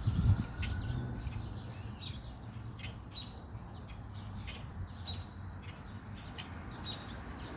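Wild birds chirping: many short, sharp calls scattered throughout, over a steady low background rumble.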